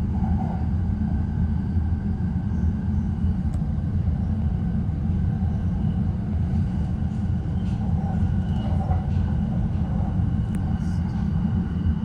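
Electric commuter train running at speed, heard from inside the carriage: a steady low rumble of wheels on track with faint clicks.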